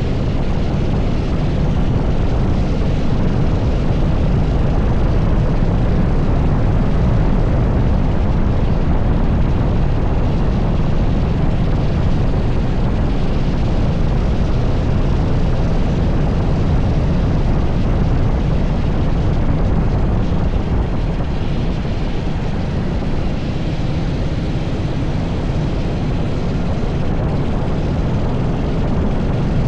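An 80cc go-kart engine running hard through a lap, heard from on board and mixed with heavy rushing wind on the microphone.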